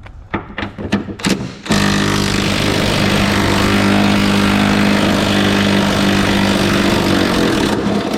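A few metallic clicks and knocks as a socket goes onto the bolt, then an impact wrench runs steadily for about six seconds, hammering a tight 18 mm rear suspension bolt loose on a 2005 Mustang GT. It stops shortly before the end.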